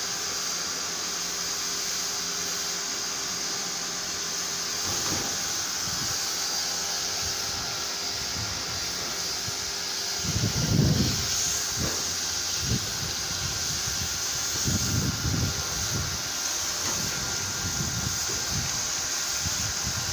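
Steady spraying hiss of a pressure washer jet cleaning a split-type aircon unit, with irregular low rumbles from about ten seconds in.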